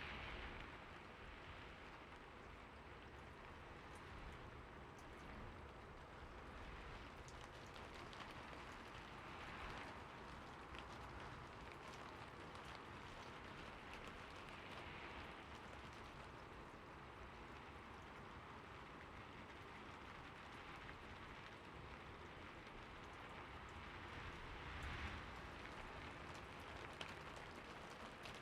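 Steady rain falling, a soft even hiss with scattered drop ticks and a few gentle swells.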